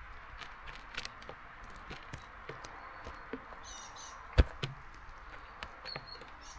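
Small birds at a seed feeder in steady rain: a stream of small clicks and taps, one sharper knock about halfway through, and brief high chirps twice.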